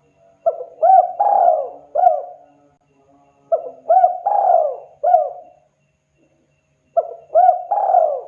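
Spotted dove (tekukur) cooing: three phrases of four coos each, every phrase a short note, a rising note, a longer loud note and a falling note, with a pause of about a second between phrases. The last phrase is still going at the end.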